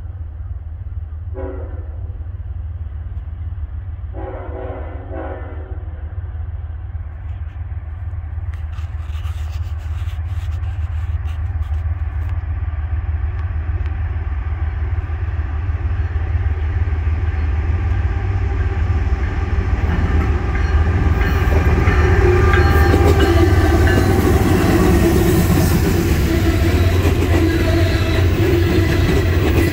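Norfolk Southern diesel freight locomotive sounding its horn, a short blast about a second in and a longer one around four seconds in. Then a loaded coal train approaches, its engines and wheels growing steadily louder until the loaded hopper cars roll past with steel wheels clattering over the rail joints.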